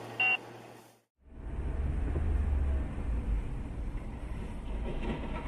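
A short high beep, then a break about a second in. After it, the steady low rumble of a vehicle on the road with wind noise on the microphone.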